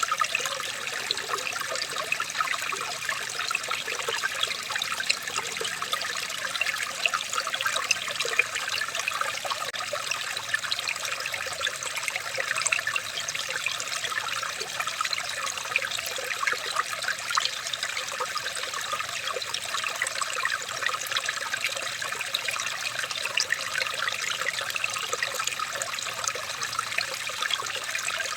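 Running water trickling steadily, with a constant patter of small splashes and bubbles that neither builds nor fades.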